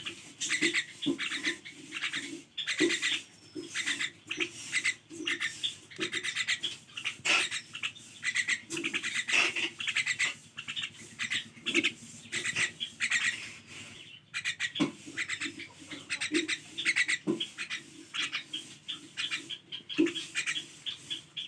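Pet myna calling with a continuous run of short, harsh squawks and chatter.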